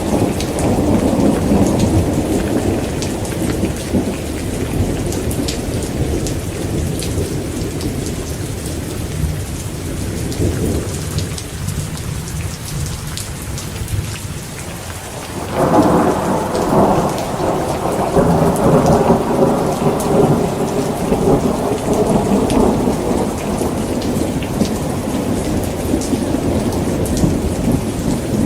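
Heavy rain pattering steadily while thunder rumbles. The rumble dies down, then a new, louder peal of thunder breaks about halfway through and rolls on.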